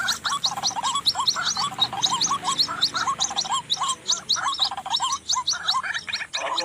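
White-breasted waterhen (ruak-ruak) calling: a dense, rapid run of short repeated notes, several a second, without a break.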